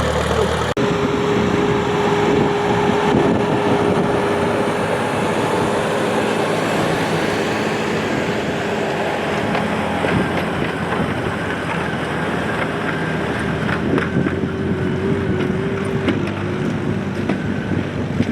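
Antique pulling tractor's engine running hard under load as it pulls the weight sled, a steady loud drone with a held whining tone that wavers near the end.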